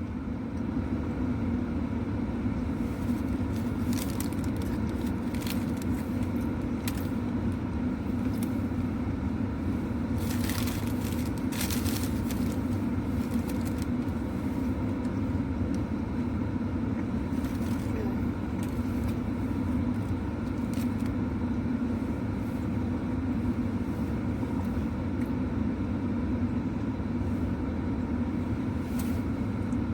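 Steady low hum inside a parked car's cabin, with scattered short clicks and rustles, the clearest about four seconds in and again around ten to twelve seconds.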